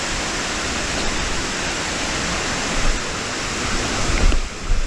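Waterfall water rushing with a steady, unbroken hiss, with a few low thuds near the end.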